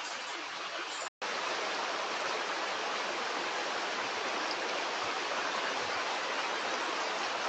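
Stream water running steadily. The sound cuts out completely for an instant about a second in, then resumes slightly louder.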